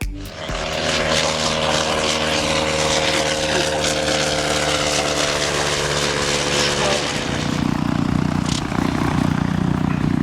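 Piston-engined propeller aircraft flying past: a loud, steady engine drone over propeller noise, growing deeper and heavier about seven seconds in.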